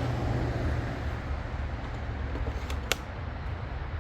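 Steady low background rumble with a sharp click about three seconds in, and a fainter one just before it: a cordless chainsaw's battery pack being swapped out and latched in.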